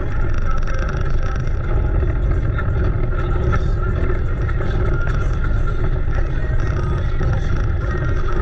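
Car running, a steady heavy low rumble with engine and road or wind noise on a GoPro microphone.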